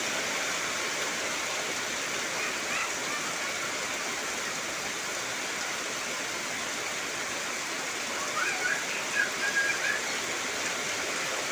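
Heavy rain falling steadily on trees and foliage, a dense, even hiss. A few brief chirps sound over it near the end.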